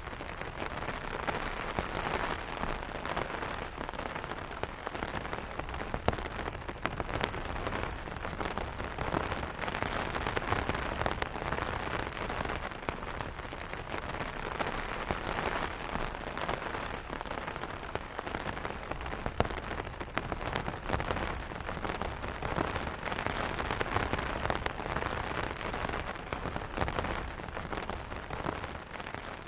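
Rain drops pattering steadily on an umbrella canopy, a dense hiss of rain with many sharp individual drop hits.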